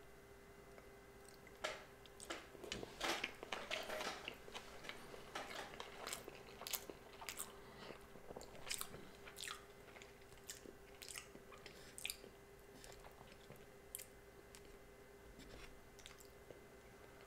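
Close-miked chewing of sushi: a run of sharp, wet mouth clicks that starts about a second and a half in, is busiest over the next few seconds and then slows, over a faint steady hum.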